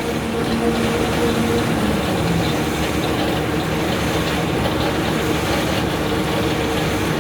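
Pull-out facial tissue folding machine running with a steady mechanical din and a few steady hums, on newly fitted SKF bearings that replaced its worn ones: it runs smoothly.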